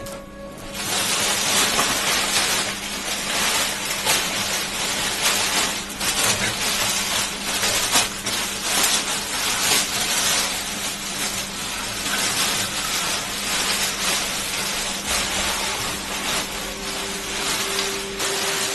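Packaging being handled during an unboxing: dense rustling and crinkling, thick with small clicks and crackles, like plastic wrap and cardboard being pulled and folded. A low hum runs underneath.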